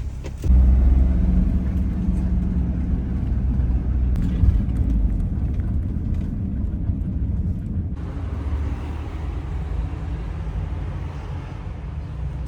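Vehicle on the move, a steady low rumble of engine and road noise.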